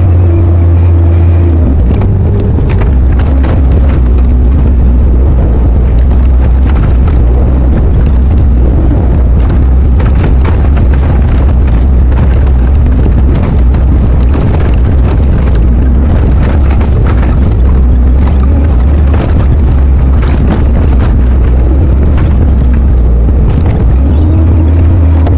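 Excavator diesel engine running loud and steady, with frequent knocks and scrapes from about two seconds in until near the end.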